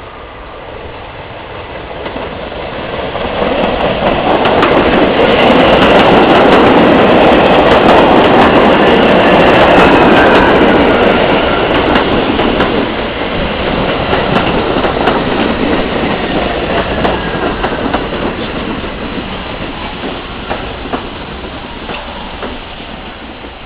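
R68A subway train running in on the express track. It grows louder over a few seconds, is loudest for about six seconds, then eases off and fades. Wheels click over rail joints throughout, with a faint wheel squeal.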